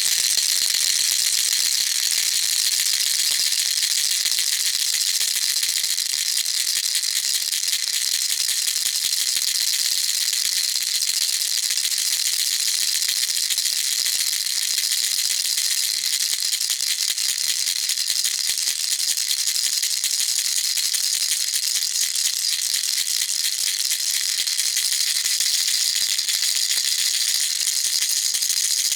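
Baby rattle shaken rapidly and without a break, its small beads making a dense, even, bright hiss of rattling with no low end.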